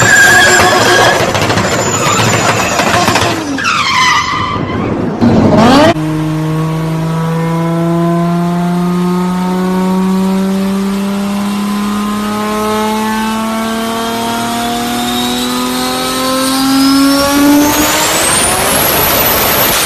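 High-powered turbocharged car engine run hard. A few seconds of loud running under load fall away in pitch as it lets off, followed by a brief loud burst. Then comes one long pull of about twelve seconds, the engine note rising slowly and steadily with a high turbo whistle climbing alongside, until it cuts off near the end.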